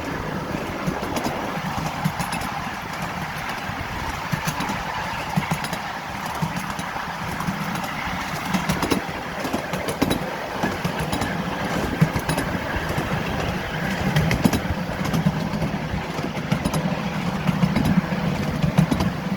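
Miniature railway train running steadily along its track, a low engine drone with frequent short clicks and knocks from the running gear and rails.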